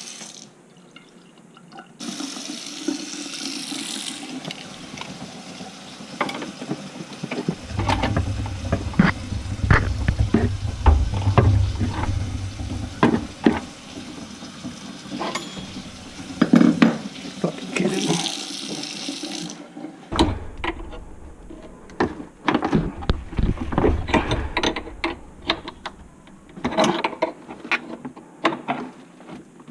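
Water running steadily for roughly the first two-thirds, then stopping, with many sharp knocks and clatter throughout.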